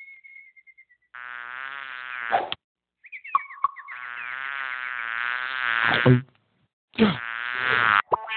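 A frog's buzzy, drawn-out calls in three stretches broken by abrupt dead silences; the longest call rises in pitch.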